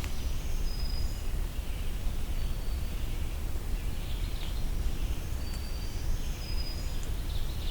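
Red-eyed vireo singing in the background: short high phrases spaced a second or more apart, with a few thin high whistled notes from other birds, over a steady low rumble.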